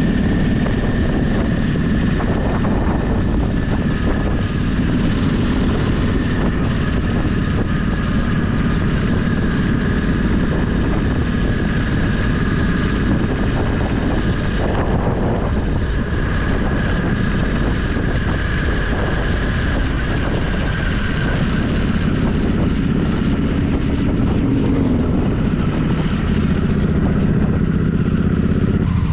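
Motorcycle engine running steadily as the bike cruises, heard from on board, with a thick low rumble and a faint steady whine over it.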